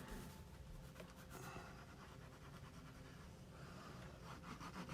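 Faint handling of paper and card stock: soft scratching and rustling with light clicks, becoming a quick run of scratchy strokes near the end.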